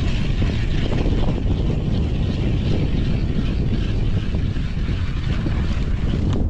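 Strong wind buffeting the microphone: a steady, loud low rumble with a hiss above it.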